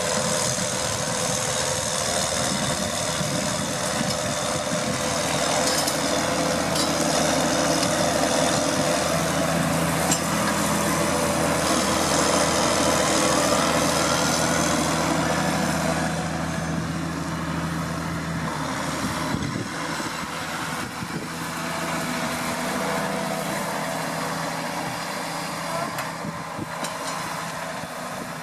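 John Deere 6930 tractor's six-cylinder diesel engine running steadily while plowing. It grows louder toward the middle, then eases off as its deepest tone drops away about two-thirds of the way through.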